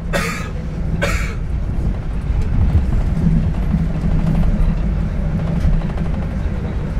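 Passenger train running on the rails, a steady low rumble heard from inside the carriage. Two short, sharp noises about a second apart near the start.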